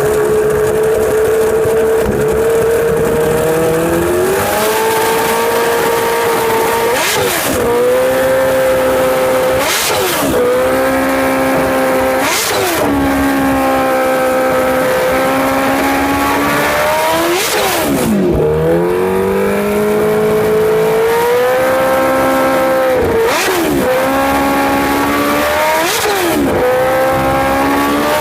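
Kawasaki Ninja H2 supercharged inline-four with an aftermarket exhaust, running under way on the road. Its note climbs slowly, then drops sharply and comes straight back, about seven times.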